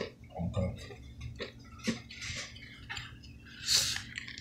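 Mouth noises of someone crunching and chewing crunchy-shelled M&M's candies close to the microphone: irregular small crunches and clicks, with a brief louder rustle near the end.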